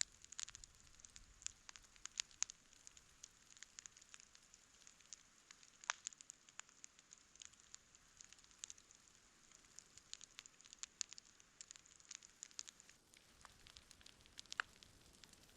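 Wood campfire crackling: irregular sharp pops and snaps over a faint steady hiss, with a louder pop about six seconds in and another near the end.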